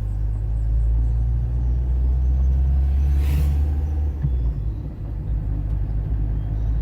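Car driving, with a steady low rumble of engine and road noise heard from inside, and a brief hiss about three seconds in.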